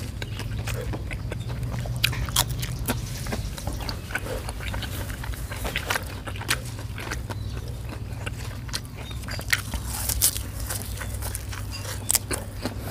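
A person chewing a mouthful of pork blood soup with pork offal and fresh herbs, close to the microphone: irregular wet clicks, smacks and small crunches over a steady low hum.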